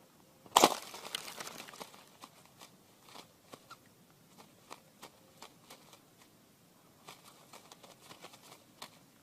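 A sharp snap about half a second in, followed by about a second of crackling rustle, then scattered light clicks and rustles.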